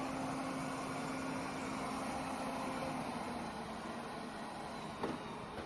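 Airzeen R7 robot vacuum running: a steady whirring hum from its suction motor and brushes that drops off about three seconds in and keeps fading, with a single click near the end.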